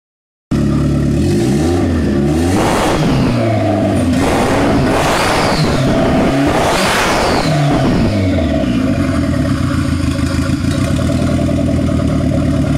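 Fiat Brava engine idling, then revved three times in quick succession, its pitch climbing and falling each time, before it settles back to a steady idle. The revving is done to check the pressure.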